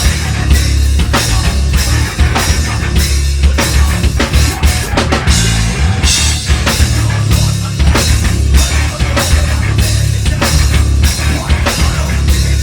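Heavy metal band playing live: loud drum kit with steady, evenly spaced hits over heavy bass and guitar. The low end thins for a moment about halfway, then comes back in full.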